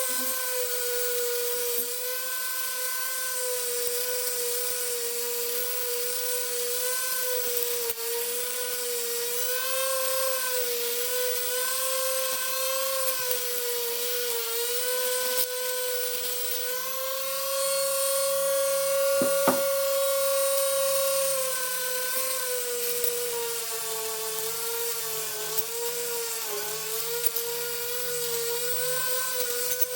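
A small handheld power tool's electric motor running steadily with a high, even whine. Its pitch sags slightly as it bears into the work and rises when it runs free for a few seconds past the middle. There is one sharp click near two-thirds of the way through.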